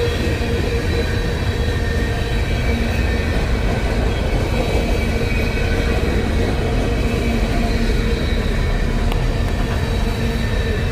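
CSX freight train rolling by: a steady heavy rumble of wheels on rail, with thin, steady high-pitched tones above it.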